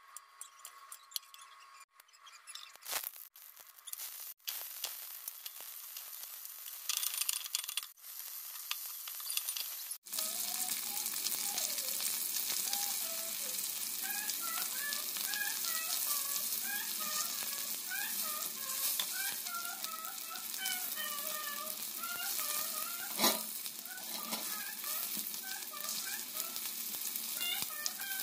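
Cooking oil sizzling in a metal pot as shallots and drumstick pieces fry. It is choppy for the first third, then settles into a steady sizzle, with one sharp knock a few seconds before the end.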